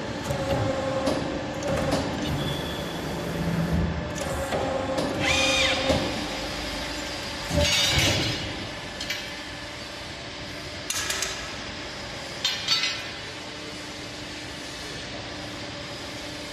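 CNC pipe bending machine running through its automatic cycle of feeding, rotating and bending pipe: a steady machine hum with a few short hissing, clanking bursts as it works.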